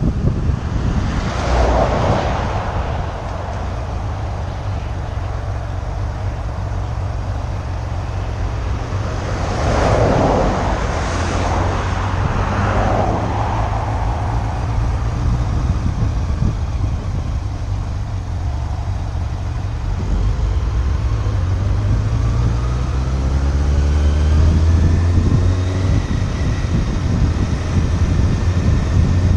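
Motorcycle on the move: a low engine drone under steady wind rush on the microphone, with louder rushing swells about two seconds in and again around ten to thirteen seconds. In the last third the engine's pitch climbs steadily as it accelerates, then holds.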